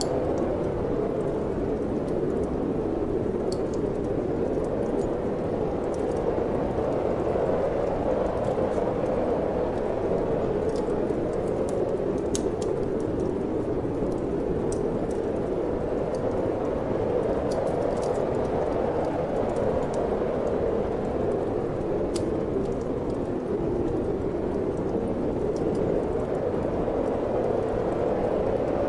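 Steady wind, a low rushing that slowly swells and eases, with the sparse crackles and pops of a wood fire burning in a fireplace scattered through it.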